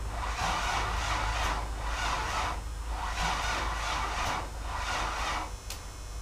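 OMC 4.3L V6 inboard boat engine being cranked by a bad starter without catching, a rhythmic chugging of about two pulses a second. The cranking stops about five and a half seconds in, followed by a single click.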